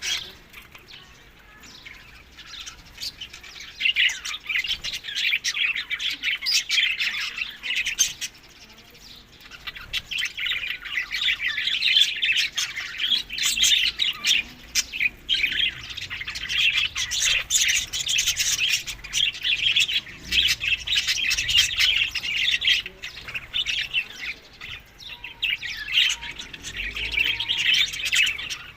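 Budgerigars chattering and chirping as a busy flock, with short quieter lulls near the start and about eight seconds in.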